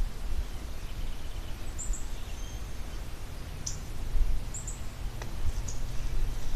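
Songbirds giving short, very high chirps, a few of them in quick pairs, and one quick falling note, over a steady low rumble on the microphone.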